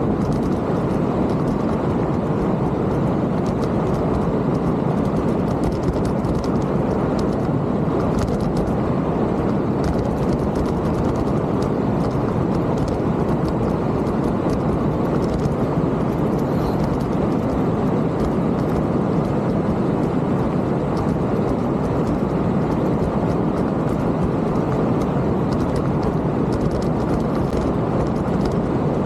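Steady rumble of wind and tyre noise from a mountain bike being ridden, with occasional faint clicks and rattles.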